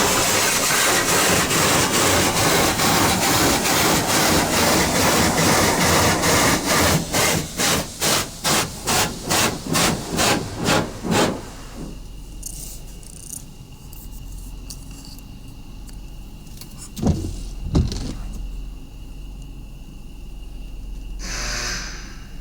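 Ryko Radius automatic car wash spraying, a loud steady hiss that breaks into quick pulses about two a second and then cuts off about halfway through. After that comes a much quieter hum with a faint steady whine, two sharp knocks, and a short burst of hiss near the end.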